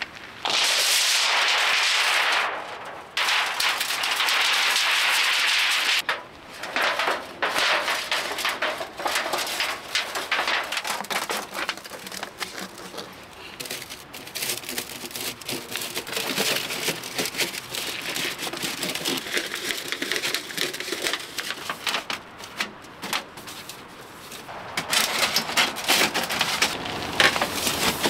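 Rain pattering, with many small clicks, knocks and scrapes as metal stovepipe sections are handled and fitted together for a wood stove. Two spells of louder steady hiss come in the first six seconds.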